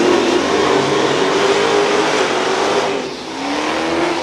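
Car accelerating hard down a drag strip at full throttle, its engine note climbing in pitch, with an upshift about three seconds in and the pitch climbing again after it.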